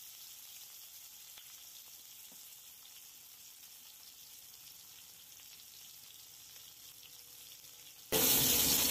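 Chopped onions frying in oil in a wok: a faint, steady sizzle that turns suddenly much louder about eight seconds in.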